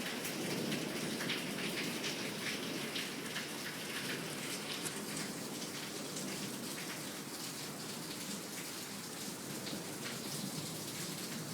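Heavy rain pouring down: a steady hiss dense with the hits of individual drops.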